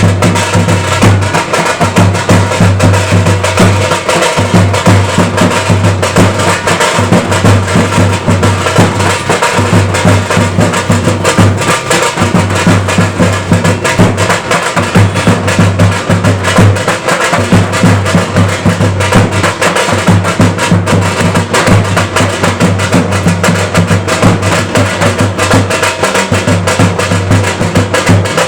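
Loud, fast drumming, played without a break.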